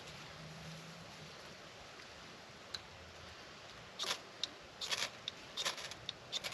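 The back of a knife scraped down a ferro rod to throw sparks into tinder: one short strike about two and a half seconds in, then a quick run of sharp rasping strikes in the second half.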